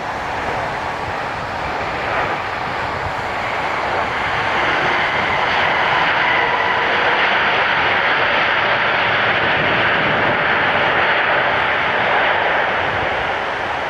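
Jet engine noise from an arriving Airbus A350 with Rolls-Royce Trent XWB engines. It is a steady rush that swells about four seconds in, holds, and eases off near the end.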